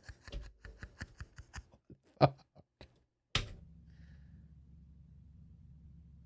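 A run of light taps and clicks, then a sharp click a little over three seconds in, followed by a steady low hum.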